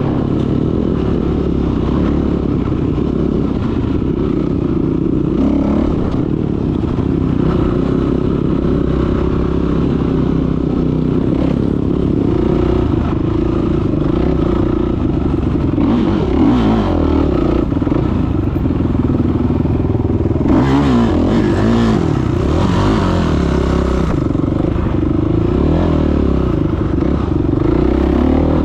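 Off-road motorcycle engine running continuously while riding, revs rising and falling, with a noisier stretch about twenty seconds in.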